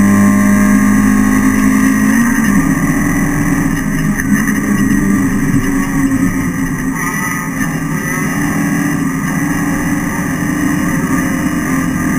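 Renault Clio Sport race car's engine running hard, heard from inside the cabin. About two seconds in, the steady engine note gives way to a rougher, less even sound.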